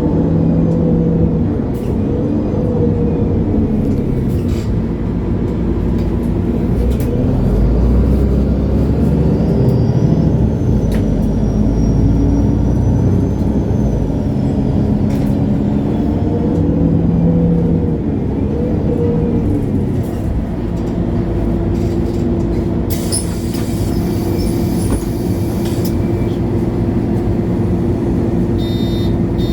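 MAN A23 Lion's City G articulated city bus heard from on board: the diesel engine rises and falls in pitch through the gears as the bus drives, then settles to a steady hum about two-thirds of the way in. A burst of air hiss follows shortly after.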